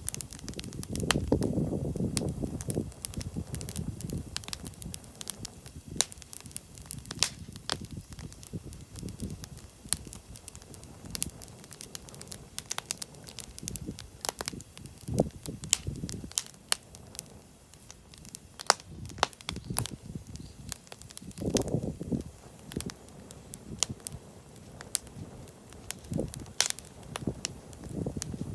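Wood bonfire crackling, with frequent sharp pops and snaps at irregular intervals. A low rushing swell rises about a second in and again about three-quarters of the way through.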